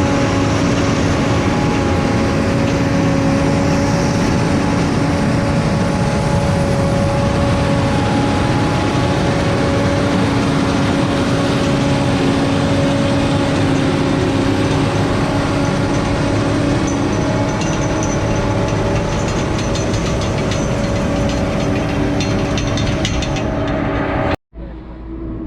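A tractor engine running steadily and loudly, with a constant hum over it. It cuts off abruptly about a second before the end.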